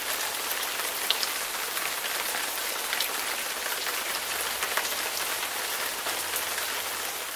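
Rain falling steadily: an even hiss with scattered sharper drop taps, a few louder ones standing out, one about a second in.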